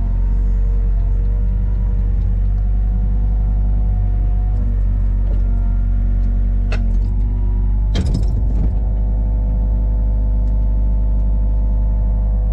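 A vehicle engine running steadily, its pitch drifting up and down as the engine speed changes, with a brief rattling clatter about eight seconds in.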